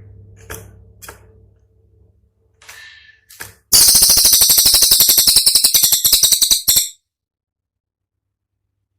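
A cililin songbird giving a rapid-fire 'tembakan' burst: a loud, high, rattling trill of sharp notes, more than ten a second, lasting about three seconds from nearly four seconds in. A few faint clicks and a short thin whistle come before it.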